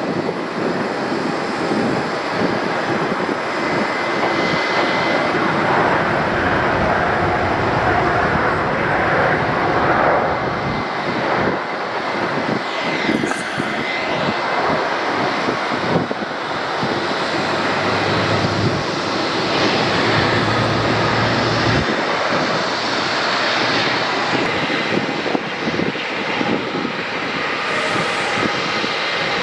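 Airliner engines running: a loud, steady rush of engine noise with a faint high whine.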